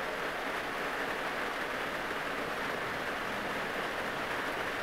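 Heavy rain drumming steadily on the roof and body of a small car, heard from inside the cabin.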